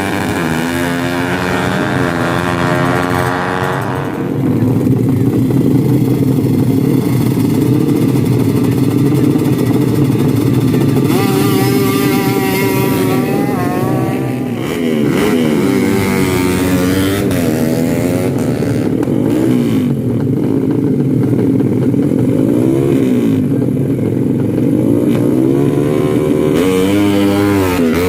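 Drag-race motorcycle engines revving, their pitch repeatedly climbing and falling, with sharp rising sweeps about eleven seconds in and again near the end.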